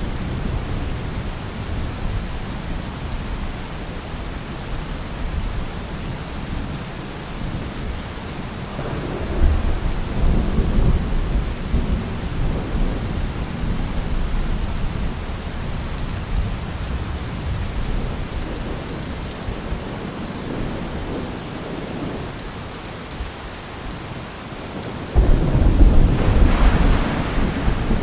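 Steady heavy rain with rolling thunder: a low rumble swells about a third of the way in and dies back, then a sudden loud thunderclap hits near the end and rumbles on.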